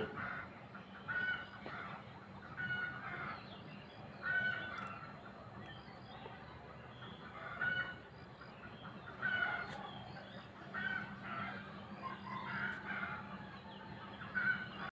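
Birds calling over and over, a short call every second or two.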